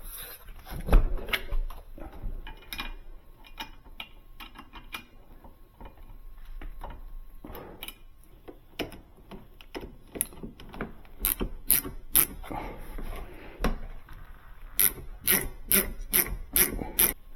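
Hand tools and metal hinge hardware clicking and knocking while a refrigerator door hinge is worked on. Scattered knocks give way near the end to a quick regular run of about eight clicks.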